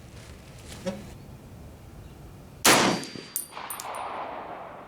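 A single rifle shot from a National Match M1A in .308, a little over halfway through, followed by a few high metallic clinks and the shot's fading echo.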